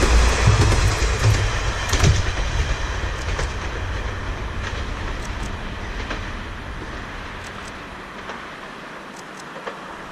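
Kanto Railway diesel railcar passing close by, its wheels thumping over rail joints in the first two seconds, then the sound of it running fades steadily as it moves away.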